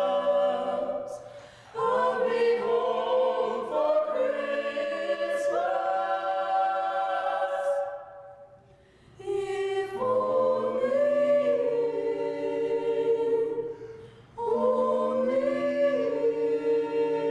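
Choir singing a holiday song a cappella, in held chords with several voice parts, in phrases with brief breaths between them.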